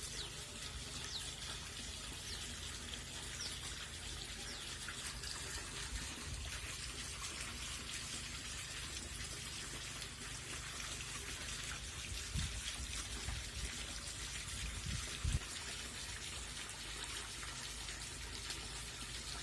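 Steady trickle of running water, with a few soft low thumps about twelve and fifteen seconds in.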